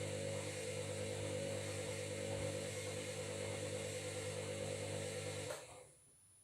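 Washing machine running, a steady motor hum with a mechanical whir, which cuts off abruptly about five and a half seconds in.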